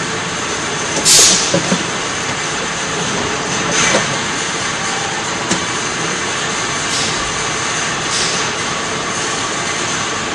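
Steady mechanical running noise, with a few brief hissing spurts about 1, 4, 7 and 8 seconds in.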